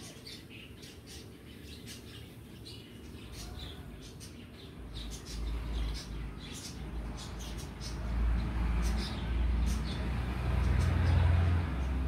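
Short, high bird chirps repeated irregularly, with a low rumble building from about five seconds in.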